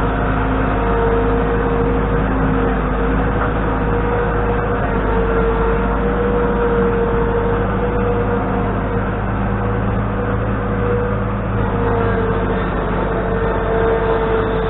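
A motor engine running steadily, with a whine that wavers slightly in pitch.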